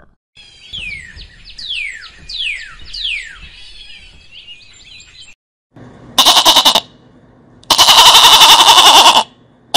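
A bird's whistled calls, several notes each falling in pitch, in the first half. Then a Barbary sheep bleats loudly twice, the second bleat longer.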